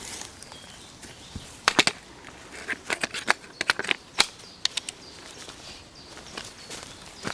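Handling sounds from pitching a tent: irregular sharp clicks and knocks, some in quick clusters of two or three, over a steady faint outdoor background.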